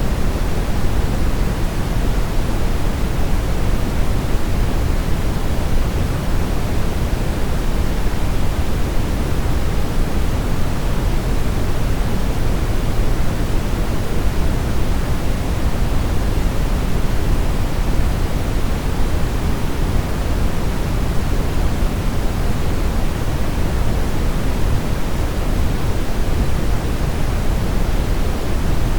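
Steady brown noise: an even, deep rushing hiss, strongest in the bass and falling away in the highs, with no changes.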